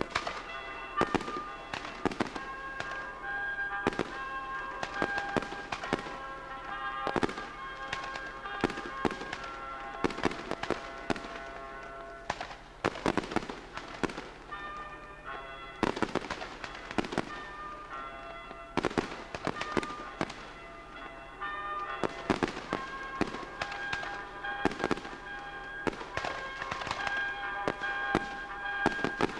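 Fireworks display: an irregular string of sharp bangs and crackles from shells bursting, some close together, over sustained tones.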